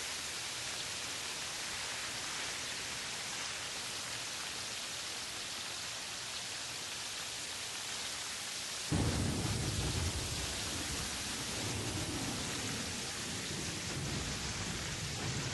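Steady hiss of rain, joined about nine seconds in by a sudden low rumble of thunder that rolls on.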